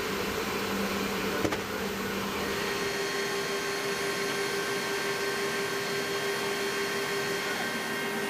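A steady mechanical whir with a steady hum in it, and one sharp click about a second and a half in; the hum's pitch changes about two and a half seconds in.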